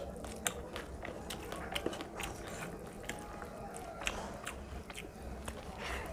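Close-miked chewing of a mouthful of rice and fish curry, with an irregular run of small wet mouth clicks and smacks.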